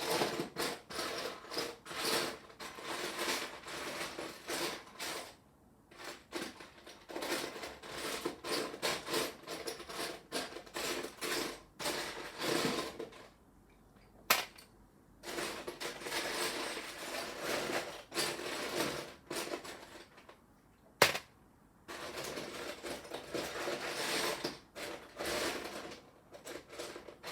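Hands rummaging through a pile of loose Lego pieces, small plastic parts clattering and rattling against each other in bursts, with a couple of single sharp clicks in the quieter gaps.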